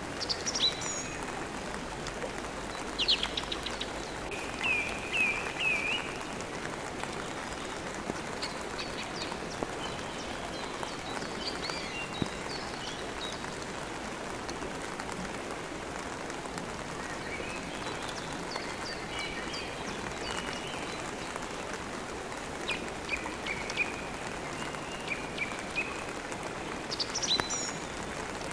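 Steady rain with birds chirping and singing at intervals, sometimes in short repeated phrases of three notes.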